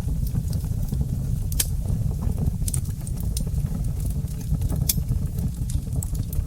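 Wood fire burning in a fireplace: a steady low rumble of the flames with sharp crackles and pops at irregular moments.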